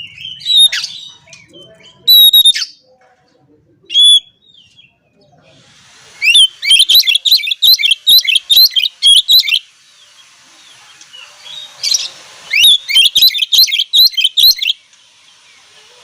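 Oriental magpie-robin (kacer) singing loudly: a few separate sharp notes, then two fast runs of repeated sharp notes, several a second, each lasting two to three seconds. Faint steady hiss underneath.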